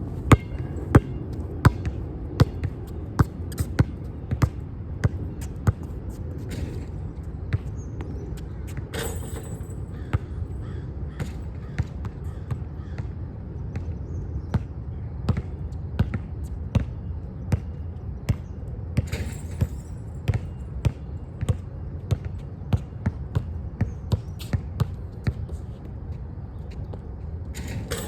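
Basketball bouncing on a hard court in a steady dribble of about one and a half bounces a second, the bounces growing sparser later. A steady low rumble runs underneath, and a couple of brighter, noisier knocks come in between.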